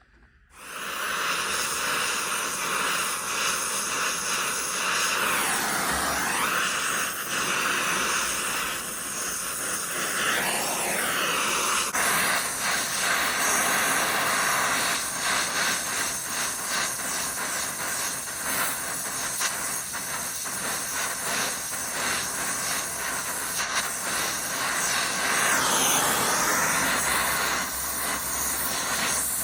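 Brazing torch flame hissing steadily while the copper refrigerant line set is brazed in. The hiss shifts in pitch now and then as the flame plays over the joint.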